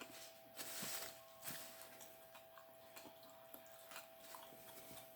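Faint chewing and small mouth and eating sounds, with a brief louder noise just under a second in, over a faint steady hum.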